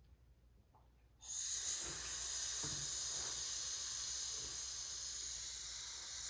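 A long, steady "shhhh" hiss held on one breath, starting about a second in. It is the SH sound made by a person to mimic the volcano erupting.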